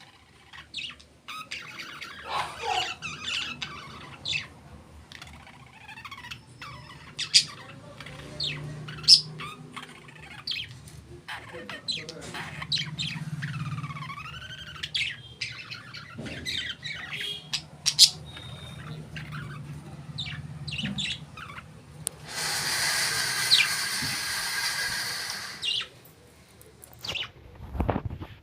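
Pet parrots chirping and squawking again and again, with some whistled calls that glide up and down in pitch. A rushing noise lasts about three seconds near the end.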